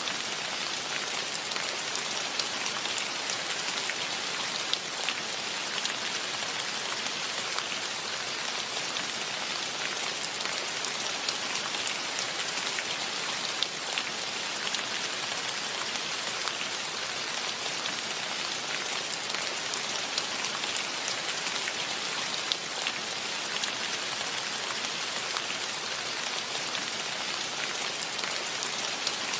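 Steady rain falling, an even hiss with many small drop ticks on leaves and ground.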